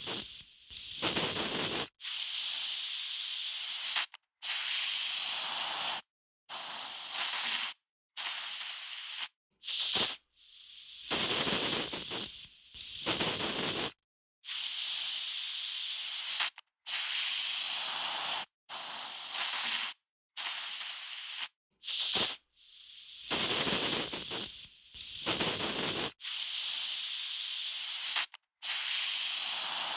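Aerosol spray can spraying in a run of short bursts, each about one to two seconds long, with brief gaps between them: a high, airy hiss.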